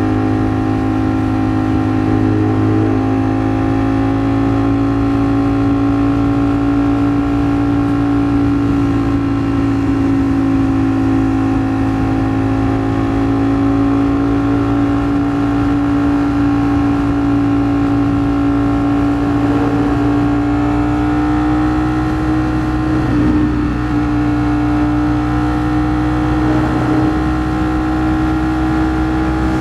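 Ducati Streetfighter V4 S's 1103 cc V4 engine running at a steady highway cruise, its pitch holding nearly level and creeping slowly upward, with two brief dips near the end.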